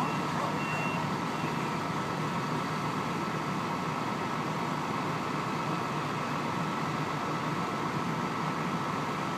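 A heavy truck engine running steadily with a constant drone, and one last reversing beep just under a second in.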